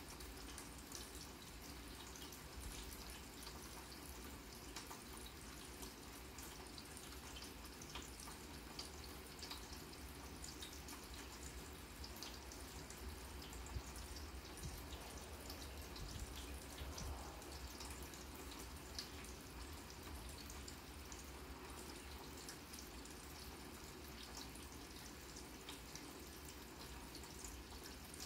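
Rain falling on a grass lawn at night: a steady, quiet hiss with many scattered ticks of individual drops.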